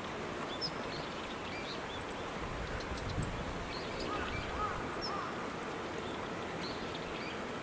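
Birds chirping now and then over a steady hiss of outdoor background noise, with a few short arching calls about four to five seconds in.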